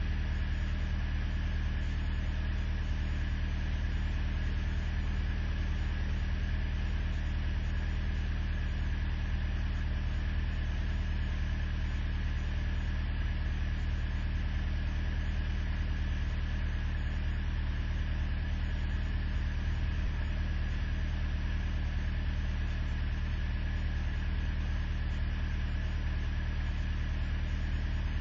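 Truck engine idling steadily with an even low hum, warming up after a hard cold start in below-zero weather.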